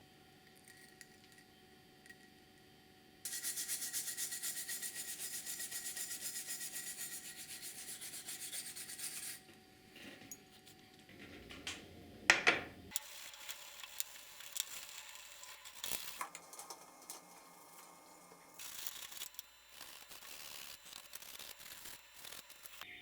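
Fast, even back-and-forth scraping strokes of hand abrading on a workpiece for about six seconds. Then come shorter scrapes and scattered knocks, with one loud sharp clatter in the middle.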